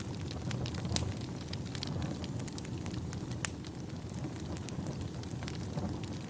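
Wood fire burning in a fireplace: irregular crackles and sharp pops over a steady low rumble, with the loudest pops about a second in and about three and a half seconds in.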